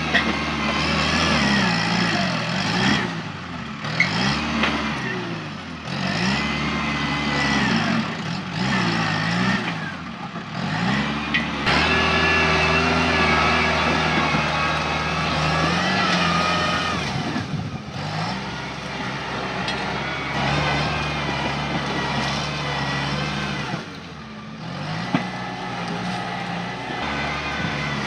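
Tractor diesel engine working hard as it pushes through brush and trees. Its pitch rises and falls again and again as the throttle is worked, with a steadier stretch about halfway through.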